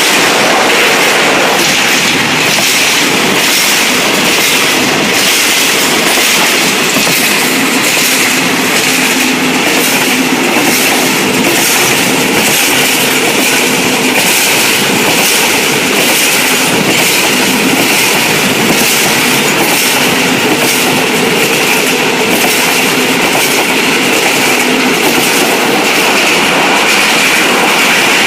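State Railway of Thailand passenger train running steadily along the track, its wheels clacking over the rail joints in a recurring rhythm under a continuous loud rumble.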